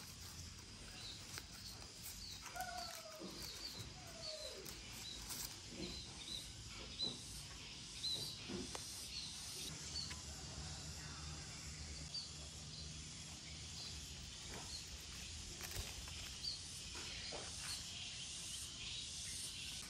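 Garden ambience: a bird's short high chirps repeating one or two a second over a steady high hiss. A faint low hum comes in for several seconds midway.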